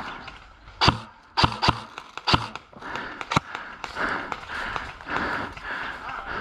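Airsoft guns firing: about five separate sharp cracks in the first three and a half seconds, then a pulsing hiss of movement until the end.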